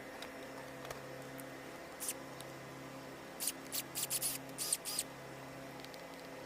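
Short, sharp clicks and scratches of hand work on small parts: one about two seconds in, then a quick cluster between about three and a half and five seconds in, over a steady electrical hum.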